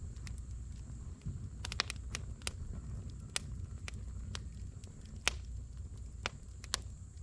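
Wood campfire crackling: irregular sharp pops and snaps, a dozen or so, over a low steady rumble.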